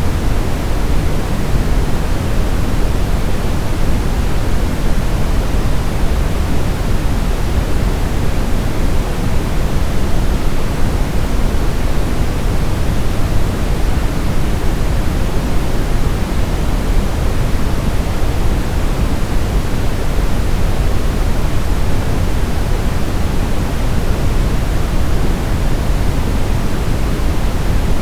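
Steady white-noise sleep sound: an even, unbroken hiss weighted toward the low end, like pink noise, with no change in level or character.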